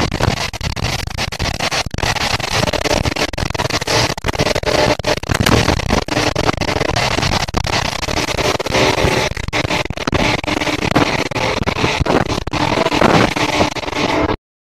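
Running noise of a moving passenger train heard from inside the coach: a dense rumble and rattle of wheels on the track with rushing air and many small knocks. It stops abruptly near the end.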